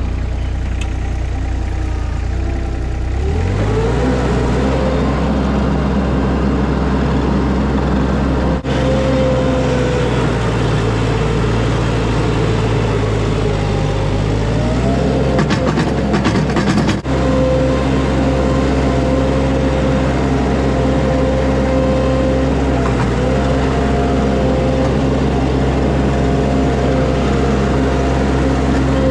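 Mini skid steer engine running under load. It revs up about three seconds in and holds high revs, with slight changes in pitch and a brief burst of clattering about halfway through.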